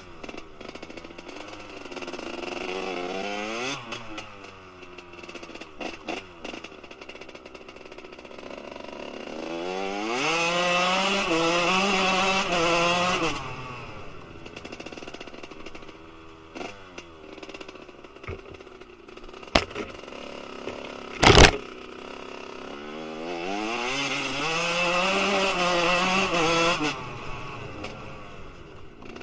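Kawasaki KX125 two-stroke single-cylinder motocross engine with a Pro Circuit R-304 shorty silencer, rising in pitch three times to a held high rev and falling back to lower running between. Two sharp cracks come a little before the last rise, the second very loud.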